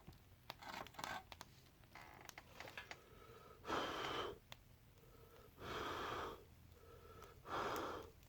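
Three breathy puffs of air about two seconds apart: a person blowing on a cup of hot mix coffee to cool it. A few light clicks come before them.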